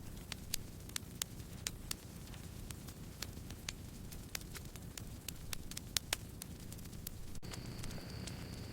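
Campfire burning, with a low steady rumble of flame and sharp wood crackles and pops at irregular moments, a couple each second. Near the end a thin, steady high tone comes in.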